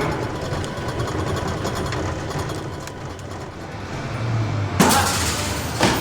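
A vehicle's engine running with a steady low rumble, with two sharp knocks about a second apart near the end.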